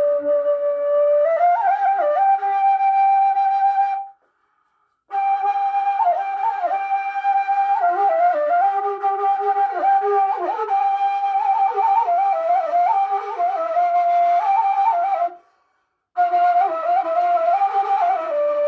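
A Turkish folk flute plays a slow, ornamented melody with quick trills and turns, a softer lower line sounding beneath it. The playing stops twice for about a second, near four seconds in and again about fifteen seconds in.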